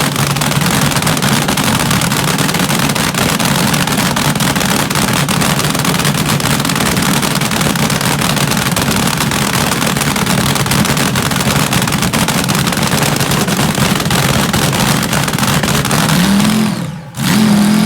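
Front-engine dragster's engine running loud and steady at a constant speed, with a crackly exhaust. Near the end the note rises, cuts out for a moment, then comes back in a short rev.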